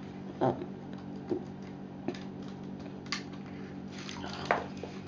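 Plastic Lego Technic parts being handled: a few scattered light clicks and knocks as the truck and its camera box are turned and the lock is worked, over a steady low hum.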